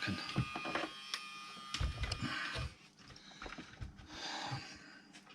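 Small clicks and knocks of leads being clipped on and the radio unit being handled while it is connected to power. A faint hiss runs underneath and drops away about three seconds in.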